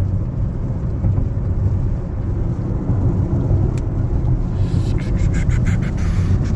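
Steady low road and tyre rumble of a Toyota Prius being driven, heard inside the cabin, with a quick run of faint clicks near the end.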